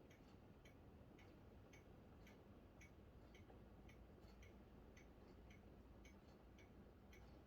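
Faint, steady ticking about twice a second over a low hum, at near-silent level.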